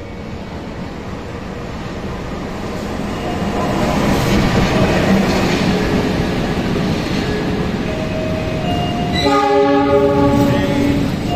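KAI diesel locomotive and stainless-steel passenger coaches rolling past close by. The rumble of engine and wheels grows louder as the locomotive draws level. About nine seconds in, a steady multi-pitched tone sounds for about two seconds.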